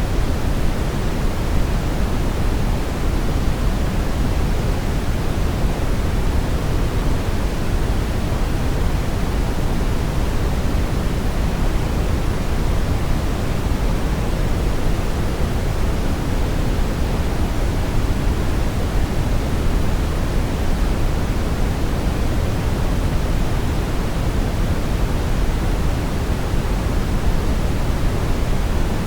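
Steady brown noise: an even, unbroken rumbling hiss weighted heavily toward the low end, with the highs rolled off.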